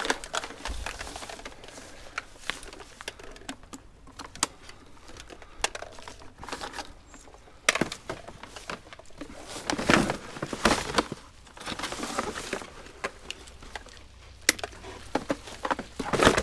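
Items in a kerbside rubbish pile being handled and moved by hand: irregular knocks, clatter and crinkling rustle, with heavier clusters of knocks about eight, ten and sixteen seconds in.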